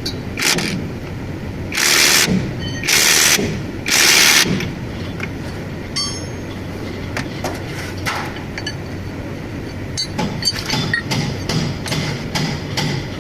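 Truck torque-rod bushing repair: four loud hissing bursts of a few tenths of a second to about a second each in the first few seconds, then a run of quick sharp knocks, several a second, from about ten seconds in, over a steady low hum.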